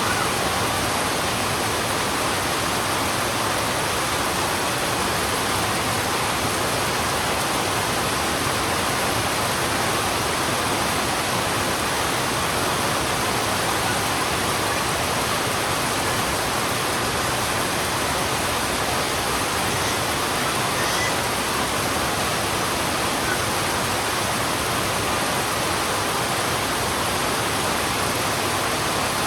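Heavy rain falling steadily on a road: a dense, even hiss that does not change.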